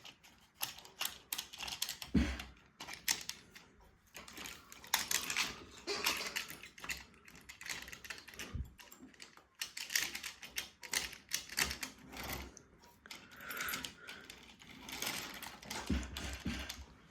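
Irregular small clicks, taps and rattles of a model railway locomotive being handled and set on the track, with a few soft thumps.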